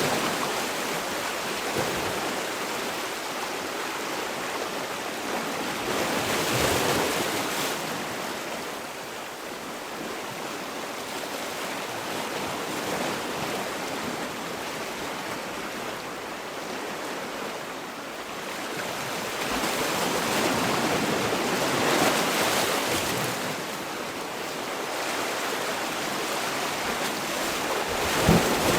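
Sea waves breaking and washing on the shore in a continuous hiss of surf that swells and ebbs, with stronger surges about a quarter of the way in, about three quarters of the way in and near the end.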